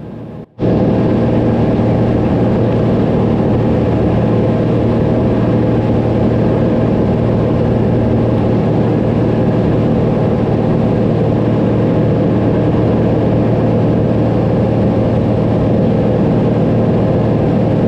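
Cessna 182 engine and propeller droning steadily in cruise, heard from inside the cabin. It cuts out briefly about half a second in, then comes back loud and unchanging.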